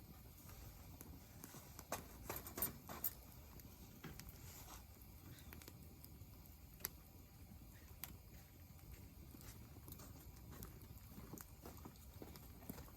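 Wood campfire crackling faintly, with scattered sharp pops, a cluster of them about two to three seconds in.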